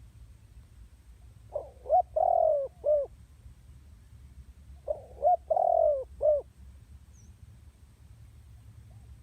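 Female spotted dove cooing, two phrases of three or four short notes each about three seconds apart: the call used to excite and lure male doves.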